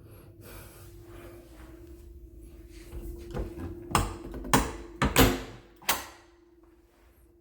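A handful of sharp knocks and clatters, about five in two seconds, from hard objects being handled, after a few seconds of faint hiss.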